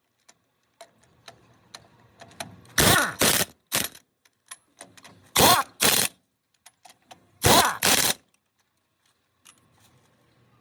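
Pneumatic impact wrench firing in short rattling bursts: three quick bursts about three seconds in, then two pairs a couple of seconds apart, with faint clicks between.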